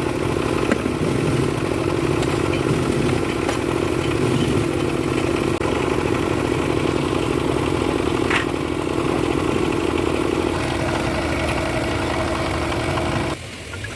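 An engine running steadily at a constant speed, then cutting off abruptly near the end.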